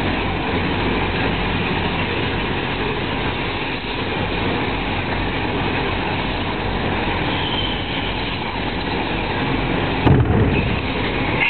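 Steady rumble of running truck engines around a burning semi-truck. About ten seconds in, a sudden deep boom as a tank on the burning truck bursts, which the onlooker takes for an air tank or a fuel tank.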